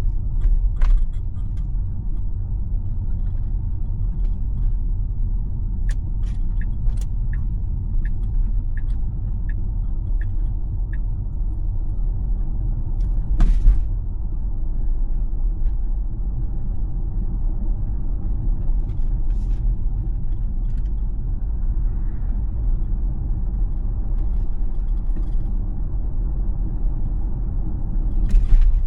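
Steady low road and tyre rumble inside a Tesla's cabin while it drives. For about five seconds a run of short ticks comes at about two a second, and there are two brief louder rushes, one near the middle and one near the end.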